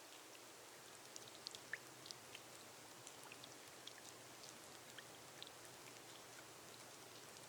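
Rain on a glass roof, faint: a soft steady hiss with scattered sharp drops ticking irregularly on the glass.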